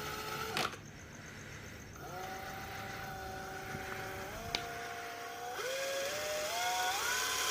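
Homemade electric outboard boat motor, built around a mini bike or scooter motor, whining as it runs. It cuts out with a click about half a second in and starts again about two seconds in, then its pitch rises in several steps as the throttle is opened.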